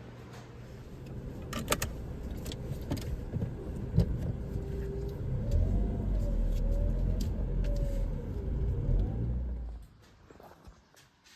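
Car driving, with a low rumble that builds and then cuts off abruptly near the end, and scattered clicks and rattles over it.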